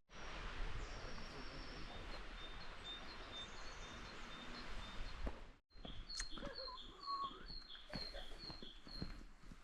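A steady rushing hiss with a faint high bird note, then, after a cut, a small songbird repeating a short high call about twice a second, with light footstep clicks.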